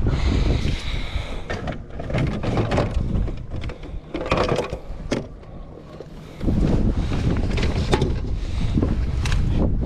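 Wind buffeting the microphone, with a run of short knocks, clicks and rattles from gear being handled on a plastic kayak. The wind drops out for about a second and a half past the middle of the stretch, then returns.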